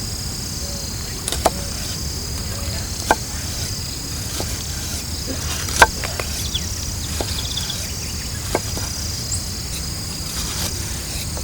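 Night insects such as crickets chirring steadily in high-pitched overlapping tones, with a few sharp snaps at irregular intervals, the loudest about halfway through.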